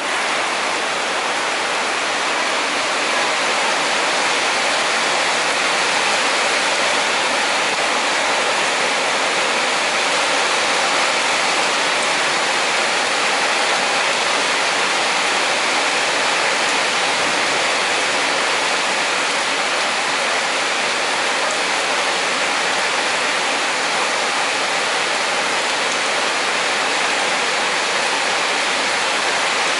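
Heavy rain pouring down in a steady, dense hiss with no letup.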